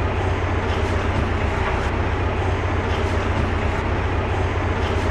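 Narrowboat engine running steadily at cruising speed inside a canal tunnel, a constant low rumble with noise spread high above it.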